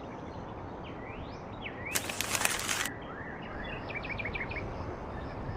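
Outdoor ambience of small birds chirping over a steady background hiss, with quick repeated chirps after the middle. A brief burst of noise about two seconds in.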